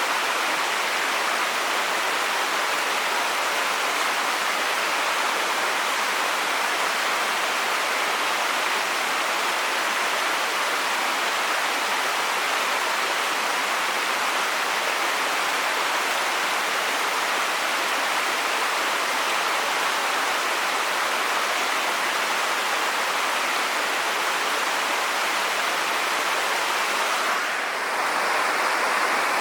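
Steady rush of moving water from a waterfall or river. About two seconds before the end it breaks off briefly and gives way to a slightly different, duller water sound.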